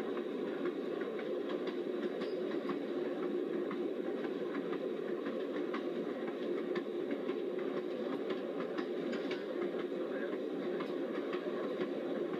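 Passenger train rolling along at speed, heard from aboard the car: a steady rolling rumble with light, irregular clicking from the wheels on the rails.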